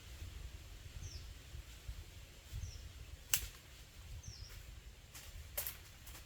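A bird repeating a short, high, falling chirp about every one and a half seconds over a steady low rumble, with a few sharp snaps or clicks, the loudest about halfway through.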